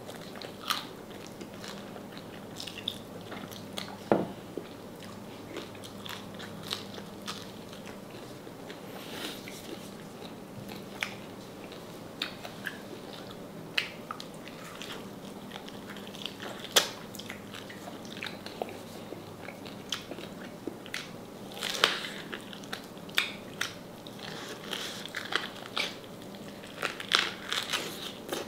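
A person biting and chewing crispy deep-fried salted pork knuckle, with irregular crunches and sharp clicks. A few loud crunches come about four seconds in and around seventeen and twenty-two seconds.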